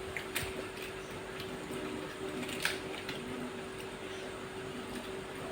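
Fuchka (pani puri) being eaten: a couple of short crisp crunches or clicks, about half a second in and near the middle, over a steady hum.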